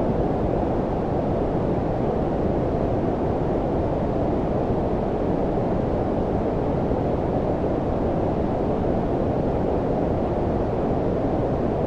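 Steady synthetic low-frequency noise of the brown-noise kind: an even, deep rush with the highs rolled off, unchanging throughout.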